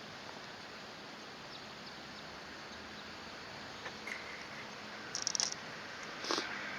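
Short, high bird calls: a quick cluster about five seconds in and another call just after six seconds, over a steady outdoor hiss.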